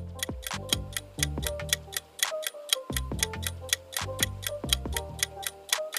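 Clock-ticking countdown sound effect, about three to four sharp ticks a second, over background music with low sustained bass notes.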